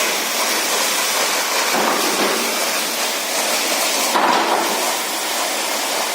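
Heavy rain and strong wind: a loud, steady rushing noise, with a brief louder surge about four seconds in.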